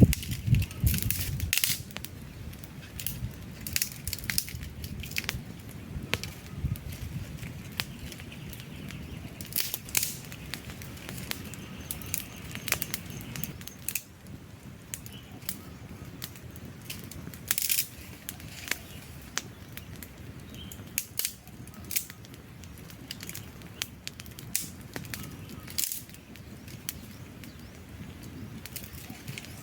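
Wood campfire burning, with irregular sharp crackles and pops from the logs over a low rush of flame, the rush stronger in the first second and a half.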